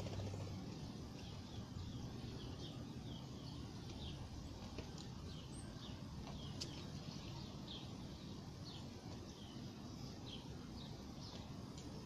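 Small birds giving short, high, falling chirps, roughly one a second, over a low steady background rumble.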